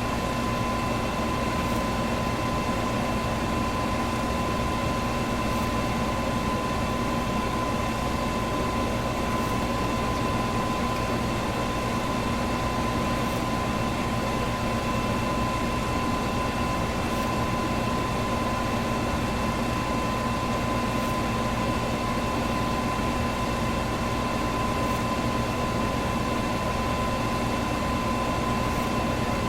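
Electric fan running steadily: an even rushing noise with a constant motor hum and a steady whine, and a faint high tick about every four seconds.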